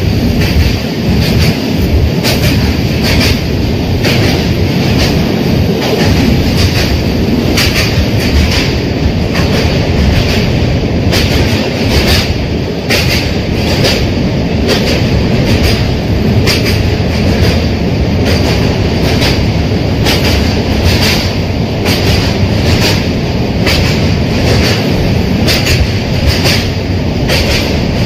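Train running along the track: a steady loud rumble of wheels on rails, with short clicks repeating every half second to a second as the wheels pass over the rail joints.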